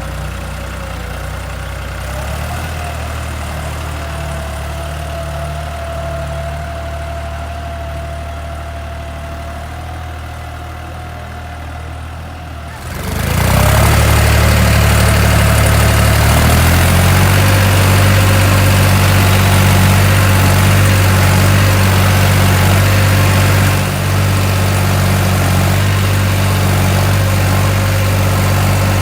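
Tractor engine running steadily at a low speed, then suddenly much louder about halfway through, running on steadily at the higher level.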